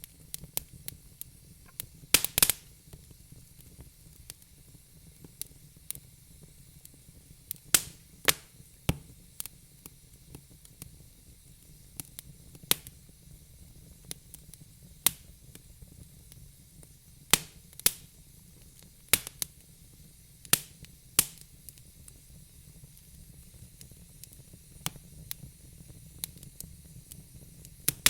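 Fire in a fireplace crackling: sharp, irregular pops every second or so over a faint steady hiss, with the loudest quick cluster of pops about two seconds in.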